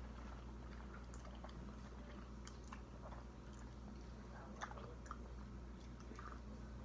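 Faint chewing, with scattered small clicks and mouth smacks, over a low steady hum.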